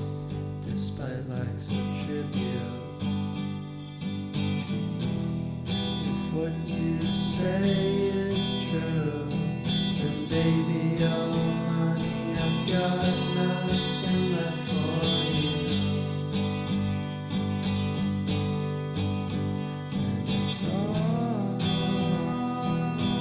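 Acoustic guitar music, strummed and plucked, over sustained low notes, with a melody line moving above.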